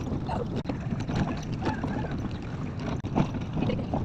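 Steady rumble of a small passenger toy train running, heard from on board, with wind on the microphone and faint voices of other riders now and then.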